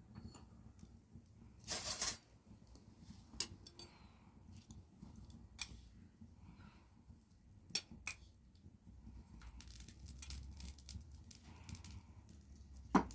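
Scattered light clicks and knocks of kitchen things being handled, with a short scraping rustle about two seconds in.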